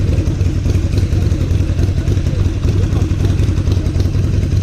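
Motorcycle engine running steadily at a low, even rumble.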